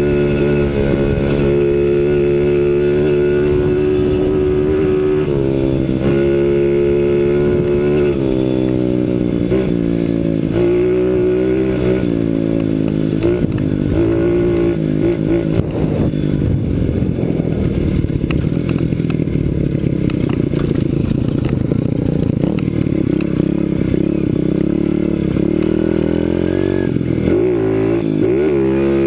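CRZ 125 Pro pit bike's 125 cc four-stroke single-cylinder engine under way off-road, revving up and easing off again and again as the rider works the throttle. The engine note rises and falls over and over, with a sharper run of revving near the end.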